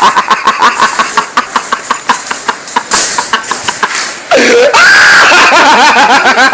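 A man laughing hard in rapid, breathy bursts, several a second. About four seconds in this breaks into a loud, high, wordless yell.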